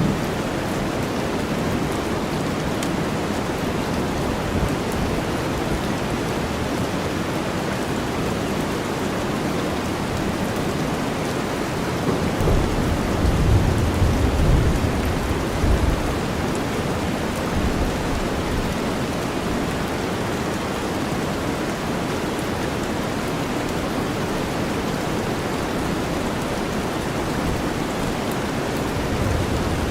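Steady rain over a deep white-noise bed. A low rumble of thunder swells about twelve seconds in and dies away some four seconds later, with a brief smaller rumble near the end.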